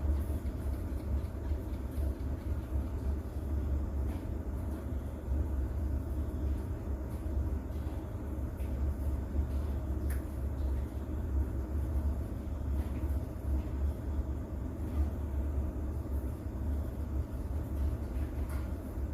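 Steady rain noise over a constant deep, low rumble, with faint scattered ticks of drops.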